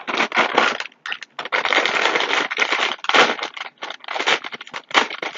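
Cheez-It crackers being crunched and chewed close to the microphone, in irregular bursts of crisp crackling.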